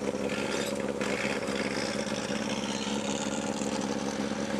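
Race car engine idling steadily, an even note that holds its pitch with no revving.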